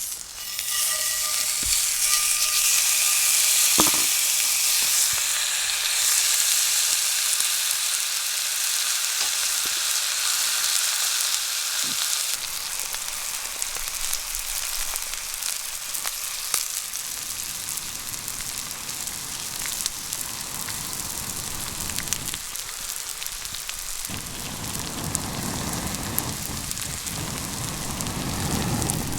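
Steak frying in a hot pan over a campfire: a loud sizzle that starts suddenly, as the meat goes into the pan, and settles into a steady frying hiss.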